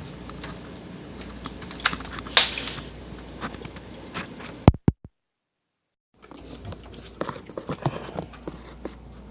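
Irregular light clicks and taps over a steady low hum, with two sharp clicks just before the sound drops out for about a second of dead silence midway, then the tapping resumes.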